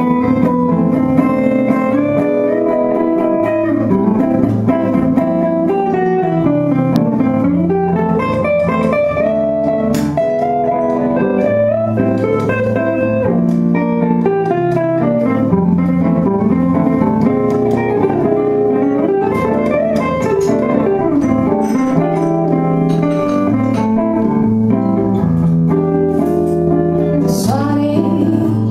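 A live band performing a song, with guitar and a gliding melody line over a steady bass.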